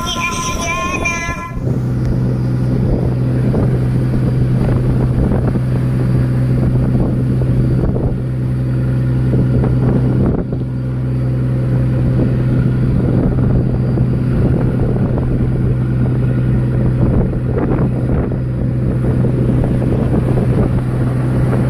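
Fishing boat's engine running at a steady, even low hum.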